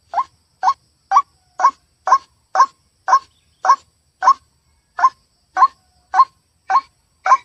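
White-breasted waterhen (ruak-ruak) call on a lure recording: a single short, sharply rising note repeated about twice a second, loud and regular, with one slightly longer pause midway.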